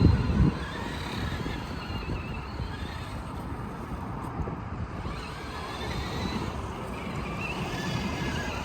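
Small electric motor and gearbox of an RC scale crawler whining as it drives, the pitch slowly rising and falling with the throttle. A short low rumble at the very start.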